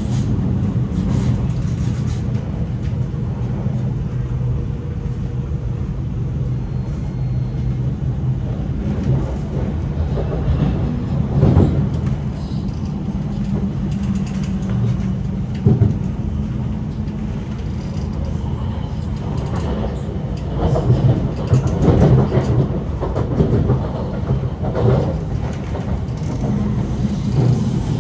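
Inside a moving MTR Kinki Sharyo–Kawasaki electric train: a steady low rumble of wheels and running gear with a low motor hum. The noise swells louder a few times, around the middle and in the second half.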